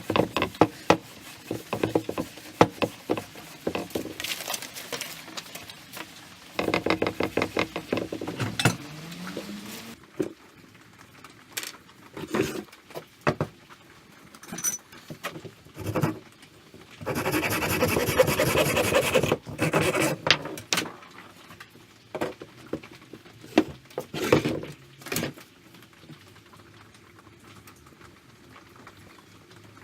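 Handling noises at a workbench: scattered clicks, knocks and small rattles, with two stretches of fast rattling, the first about seven seconds in and the second about seventeen seconds in.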